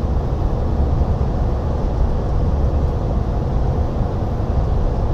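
Steady low engine drone and road rumble inside a truck cab driving at highway speed, pulling trailers.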